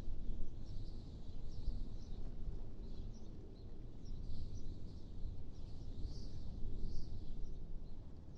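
Wind blowing as a low, uneven rumble, with small birds chirping over it in short, high calls again and again.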